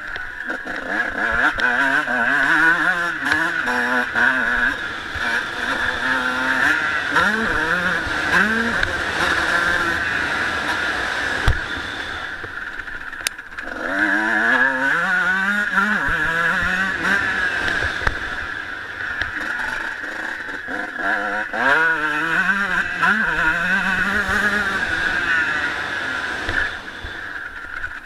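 Honda CR125 two-stroke motocross engine revving hard, its pitch climbing again and again as the rider accelerates through the gears. About halfway through the revs briefly fall away as the throttle closes, then climb again.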